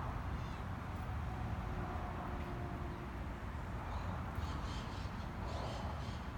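Outdoor ambience: a steady low rumble, with a bird calling in a quick run of short, high chirps from about four seconds in.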